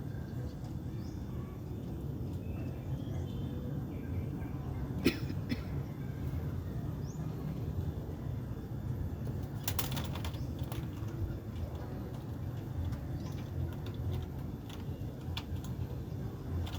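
Pigeons, with a short burst of wing flaps about ten seconds in and a single sharp tap about five seconds in, over a steady low rumble.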